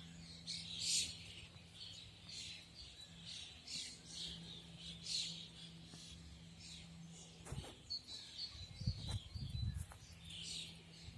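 Several songbirds chirping in short, repeated calls, over a steady low hum. A few dull low thumps come about two-thirds of the way in.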